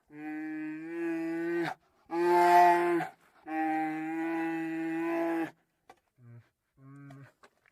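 Drawn-out, steady-pitched animal calls: three long calls one after another, then two short, fainter ones near the end.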